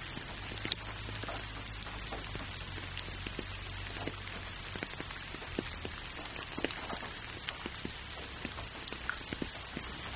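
Steady rain pattering: a dense hiss with many individual drops ticking through it, over a low steady rumble underneath.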